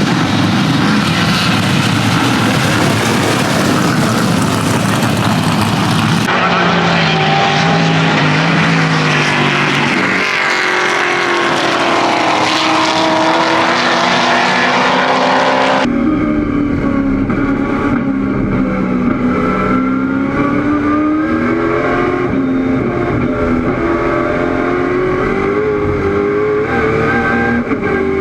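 1969 Camaro race car's 700 hp V8 engine at racing speed, its pitch climbing under full throttle and dropping on each gear change. The sound changes abruptly twice, at about six and sixteen seconds in.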